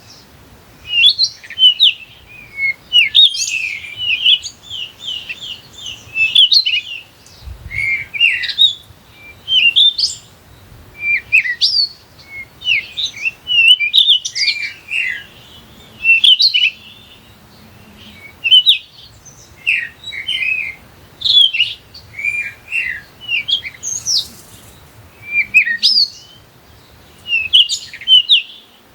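Small birds chirping and tweeting almost without pause: clusters of short, quick high notes, one after another.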